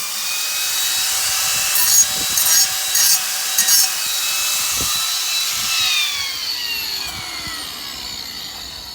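Electric power saw cutting through PVC pool pipe, with a steady motor whine and a few sharp crackles as the blade bites. About five and a half seconds in the trigger is released and the motor's whine falls steadily in pitch as the blade spins down.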